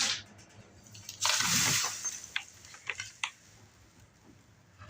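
Brass cartridge cases and dry corncob tumbling grit being poured onto a sifting screen: a short hissing pour about a second in, followed by a few light metallic clinks.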